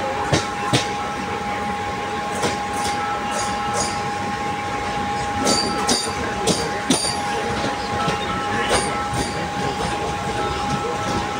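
Suburban local train running at speed, heard from inside the carriage: a steady rumble and rush with a constant high hum, broken by irregular sharp clacks and knocks from the wheels on the track.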